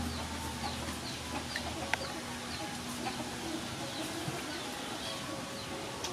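Birds calling outdoors: a small bird's short chirps repeating about twice a second, with a single sharp click about two seconds in.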